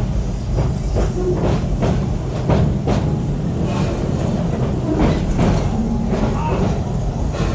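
Park train rolling along its track at speed, heard from on board: a steady low rumble with irregular clicks and clacks of the wheels over the rails.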